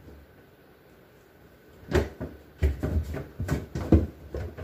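A refrigerator drawer being worked loose and pulled out: after a quiet couple of seconds, a run of irregular knocks and rattles.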